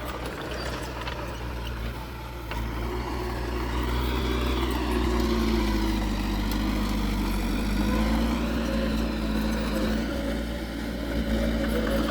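Heavy diesel engine of construction machinery running under load, its pitch rising and falling as the throttle changes.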